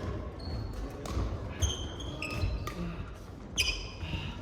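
Badminton doubles rally in a hall: sharp racket strikes on the shuttlecock, loudest about one and a half seconds in and again near three and a half seconds, with short squeaks of court shoes on the floor and low footstep thuds.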